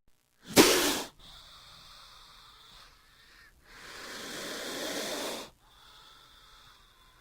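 King cobra hissing: a sharp, loud burst of hiss about half a second in, a quieter stretch, then a longer hiss that swells and cuts off suddenly.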